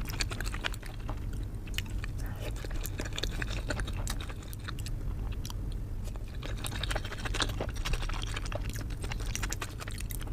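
Close-miked chewing of momo dumplings: a dense run of wet mouth clicks, smacks and squelches, over a low steady hum.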